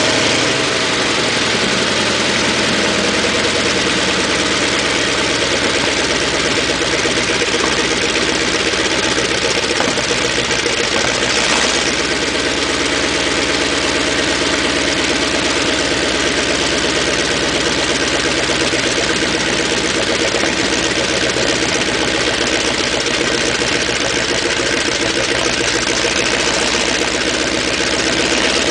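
Sherman tank engine idling steadily.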